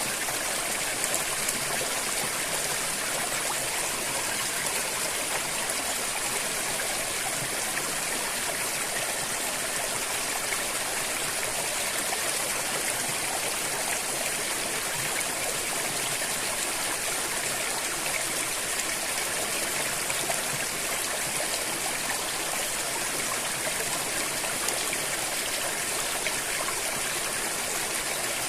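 A river flowing steadily, a continuous rush of water with no pauses.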